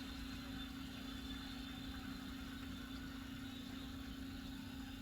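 Steady low electric hum of a small motorized display turntable running, with a faint, even background noise.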